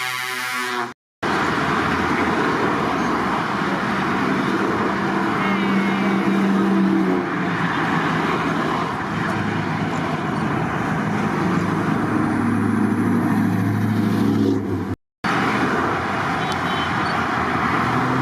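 Heavy trucks driving past in a convoy, their diesel engines running over steady road noise. A horn sounds in the first second, and the sound cuts out abruptly for a moment twice.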